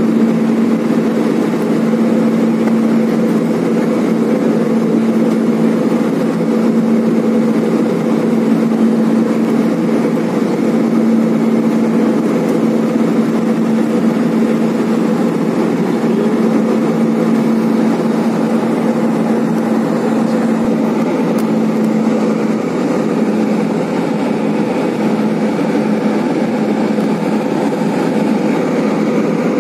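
Airliner cabin noise in flight: a steady engine drone and rush of air with an unchanging low hum.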